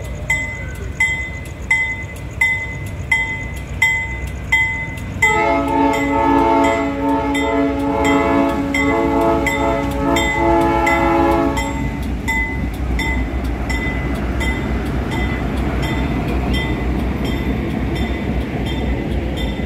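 Diesel locomotive arriving. A bell rings in regular strokes, about one every 0.7 s. Then, from about five seconds in, the locomotive's multi-tone air horn sounds a chord for about six seconds with a few short breaks, and after it comes the steady low rumble of the locomotive and cars rolling past.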